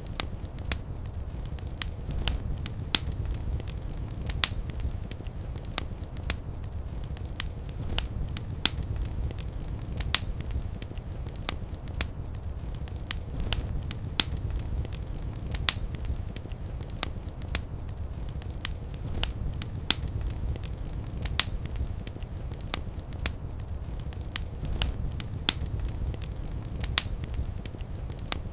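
Fire crackling in a fireplace: frequent, irregular sharp pops and snaps over a steady low rumble of flames.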